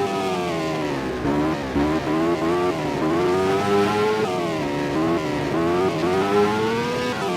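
MotoGP racing motorcycle engines revving hard. The pitch climbs and then drops sharply again and again through the gear changes.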